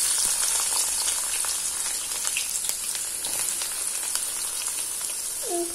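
Chopped shallots sizzling as they hit hot oil in a pan, the frying hiss strongest as they go in and easing a little, with scattered small pops.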